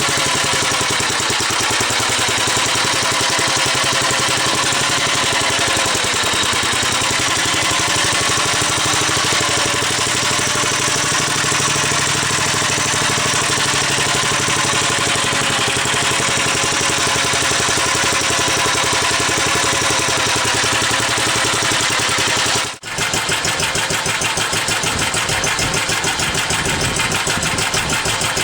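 1945 Gravely Model L's single-cylinder engine running steadily, warmed up and idling smoothly after its first start-up. About 23 seconds in the sound drops out for a moment and comes back with each firing beat more distinct.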